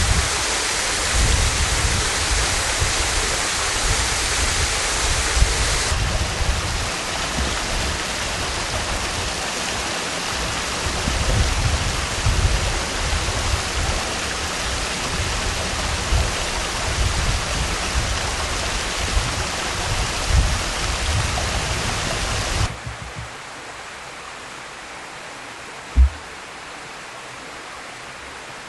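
Partly frozen waterfall rushing in a steady, dense hiss of falling water. About three-quarters of the way through it drops abruptly much quieter, and a single short low thump follows a few seconds later.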